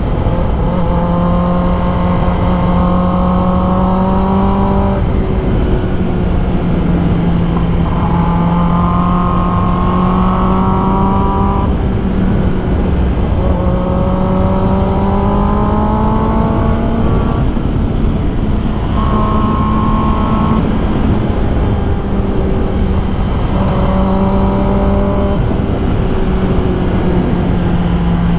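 2021 Kawasaki ZX10R's inline-four engine running at road speed under heavy wind rush, its pitch climbing in several pulls of a few seconds each.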